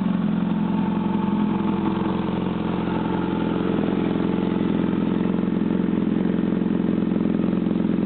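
2008 Yamaha R6's inline-four engine idling steadily through a Termignoni GP-style slip-on exhaust.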